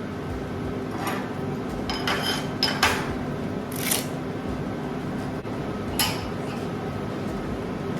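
Light metallic clinks and short scrapes as steel pieces and tools are handled at a workbench, about half a dozen spread over several seconds, over a steady hum.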